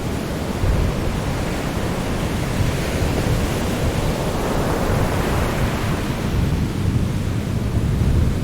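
Sea surf: waves washing in over a steady low rumble, one wave swelling to a hiss about halfway through and then drawing back.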